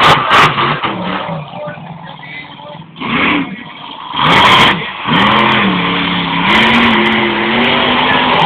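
Monster truck engine revving in a mud pit. The pitch rises and falls, with a loud burst about four seconds in and a steadier, wavering drone in the last few seconds.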